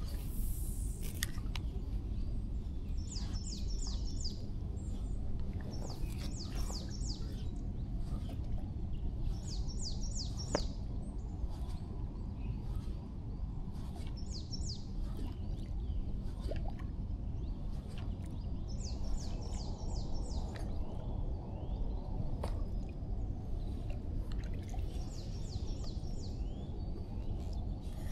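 A songbird sings about six short phrases of quick, high repeated notes, a few seconds apart, over a steady low rumble.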